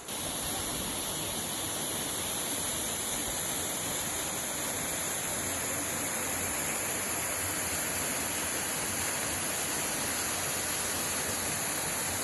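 Steady rushing noise of the park's 77-foot waterfall, water falling continuously.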